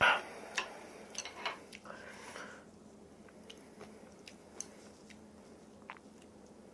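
Close-miked chewing and biting of food, with a louder bite right at the start followed by small wet mouth clicks.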